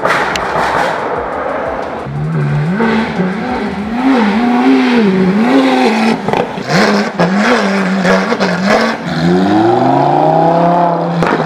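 A supercar engine revving over and over, its pitch swinging up and down again and again, then rising in one longer climb near the end.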